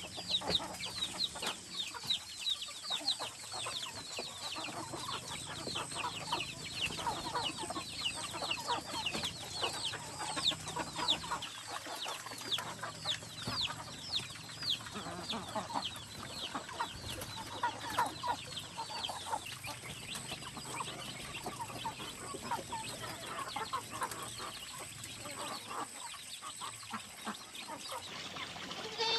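A flock of chickens clucking, over a dense, continuous stream of short, high, falling cheeps.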